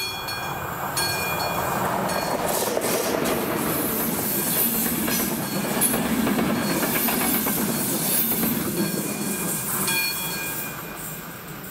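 A passenger train of coaches passing over a level crossing, its wheels running on the rails. The noise builds about a second in and dies away near the end. The crossing's classic electric warning bell rings at the start and is heard again near the end as the train noise fades.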